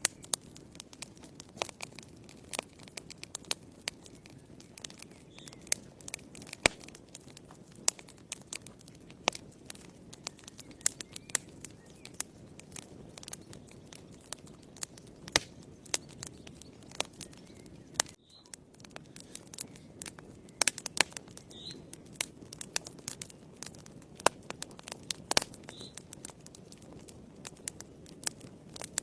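Wood fire burning in a fireplace, crackling: irregular sharp snaps and pops over a steady low rumble of the flames.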